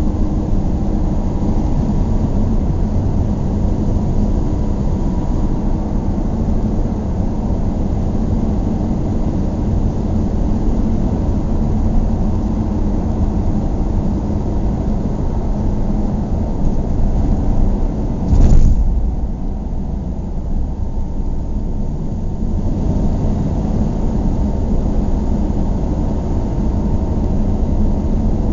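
Steady low rumble, like a vehicle running, with one short, louder whoosh about two-thirds of the way through.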